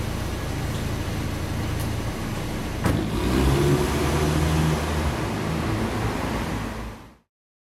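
Audi TT coupé's engine running, with a sharp click about three seconds in, then the engine note rising as the car pulls away. The sound cuts off suddenly near the end.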